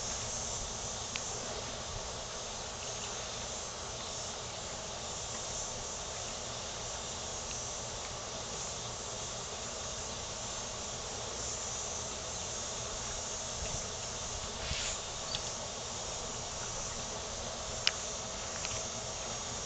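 Steady high-pitched insect chorus, crickets or similar, with a few faint clicks and one sharp knock near the end.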